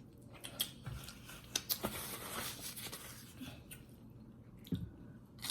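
A person chewing food close to the microphone, with wet mouth sounds and scattered sharp clicks and smacks.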